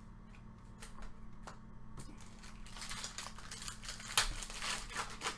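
Trading cards and their crinkly packaging being handled: a few light ticks at first, then denser crinkling and rustling in the second half, loudest about four seconds in.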